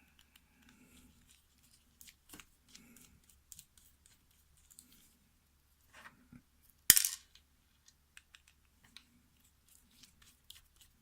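Small metal clicks and handling noises from a mortise lock cylinder being taken apart, with one sharp, ringing clink about seven seconds in.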